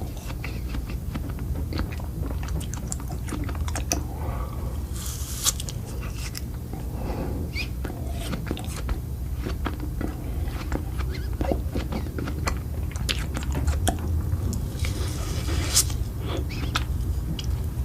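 A person chewing and biting crunchy food, with many irregular sharp crunches, over a steady low hum.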